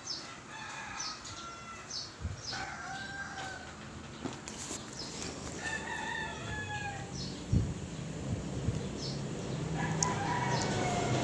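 Birds calling in the background: repeated short high chirps, and several longer calls of about a second each. A dull thump about two-thirds of the way through.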